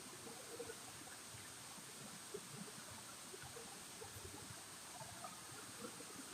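Faint steady rush of running water, with scattered small clicks and ticks.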